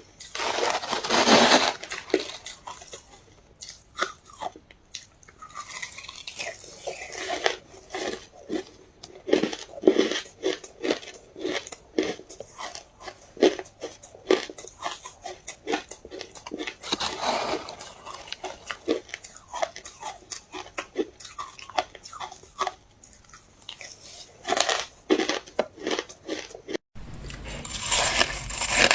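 Ice being bitten and chewed close to the microphone: irregular sharp crunches and cracks, with longer stretches of grinding now and then. A brief dropout comes near the end, followed by denser crunching.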